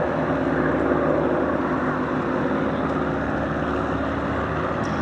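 Piston-engined propeller aircraft running steadily, an even drone with a constant pitch.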